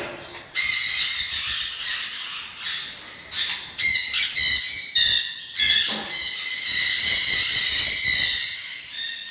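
A flock of caged pet birds squawking and chattering, many harsh calls overlapping almost without a break from about half a second in.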